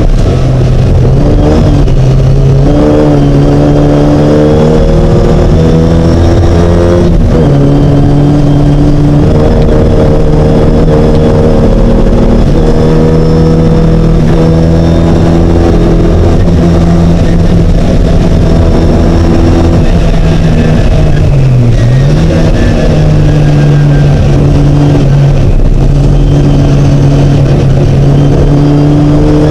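Mini race car's engine running hard under racing load, its pitch holding fairly steady with small steps and one brief dip and recovery about two-thirds of the way through.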